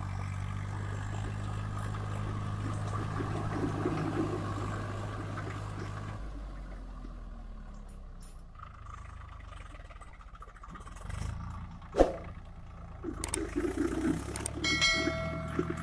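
Swaraj 744 FE tractor's diesel engine running steadily, its note dropping lower about six seconds in. A single sharp knock comes about two thirds of the way through, and a short high-pitched tone sounds near the end.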